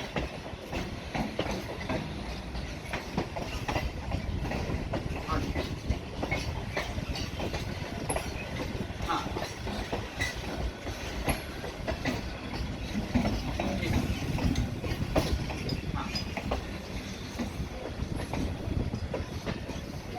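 Train running along the track, its wheels clattering over the rail joints in irregular sharp clicks over a steady rumble.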